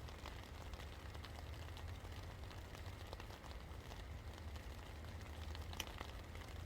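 Steady rain, with many individual drops ticking on a surface over a low, steady rumble. One louder drop lands near the end.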